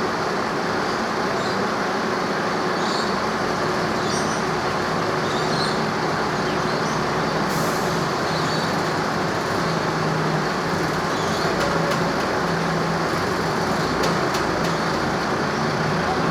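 A vehicle engine running steadily, a constant low hum under a broad noisy rumble.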